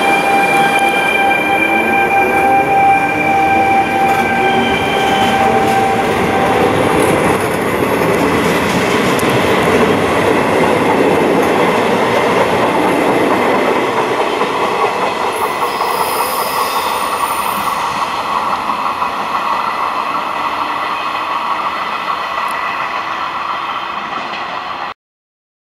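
Trenitalia E464 electric locomotive accelerating away from a station, its traction equipment giving a whine of steady tones, some rising in pitch, over the loud rolling noise of the train on the rails. The whine dies away after about seven seconds, and the rolling noise of the regional coaches fades slowly as the train pulls away, until the sound cuts off abruptly near the end.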